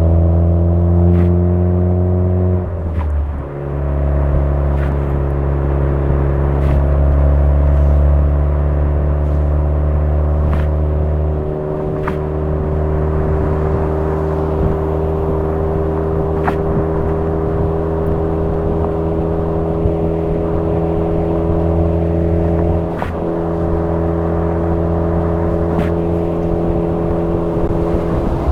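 Suzuki Swift Sport ZC33S's 1.4-litre turbocharged four-cylinder engine droning through an aftermarket Fujitsubo muffler while driving. The note rises slightly for the first couple of seconds, dips briefly about three seconds in, then holds a steady, slightly lower note for the rest.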